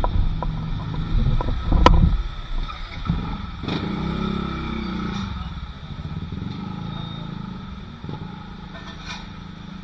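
A motor vehicle passing over a low engine rumble, its engine pitch falling as it goes by, with a sharp knock about two seconds in. The sound fades toward the end.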